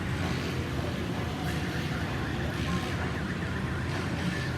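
Steady hiss of heavy monsoon rain, with a faint electronic alarm warbling rapidly up and down through most of it.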